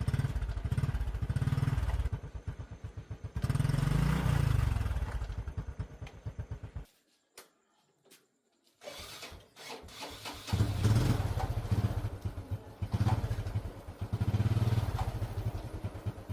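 Motorcycle engine running and being revved in blips. It cuts out about seven seconds in, is started again about two seconds later, and is revved several more times.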